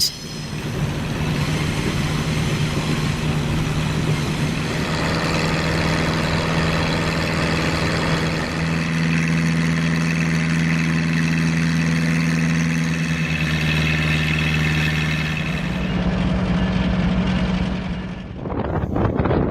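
Heavy diesel engine running steadily at a constant speed, with a broad hiss over it. The sound changes abruptly a few seconds before the end.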